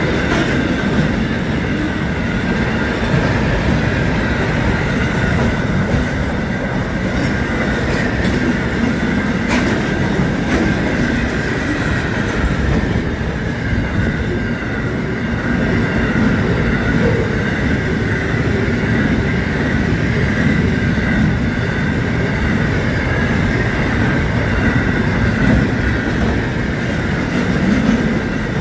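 Double-stacked container wagons of a long freight train rolling past: a steady, loud rumble of wheels on rail with a constant high-pitched ring over it. A few sharp clicks come through around a quarter of the way in.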